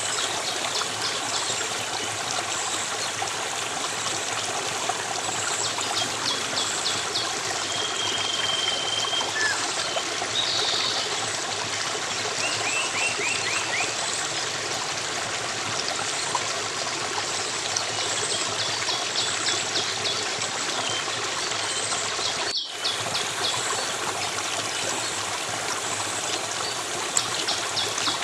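Steady flowing stream water, with small birds chirping and trilling high over it again and again and a short whistled note now and then. The sound drops out for a split second about two-thirds of the way through.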